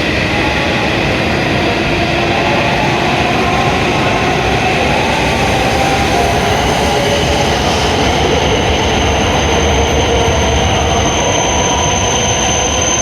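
An E7-series Hokuriku Shinkansen train pulling into the platform and slowing, a steady loud rumble of wheels and running gear. A high thin whine comes in and grows louder through the second half as it brakes.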